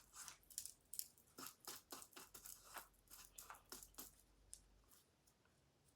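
Faint rustling and light clicks of small items being handled while packing, a quick string of short noises that dies away after about four and a half seconds.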